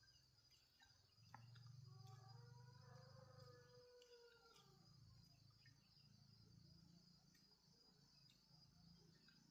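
Faint, steady insect drone from crickets, with a single long pitched call that rises and falls about two seconds in, and a few faint clicks.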